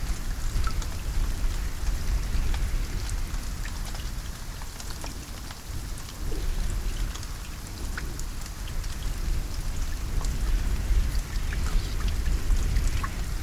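Steady rain falling, with many individual drops ticking sharply on a surface over a constant low rumble.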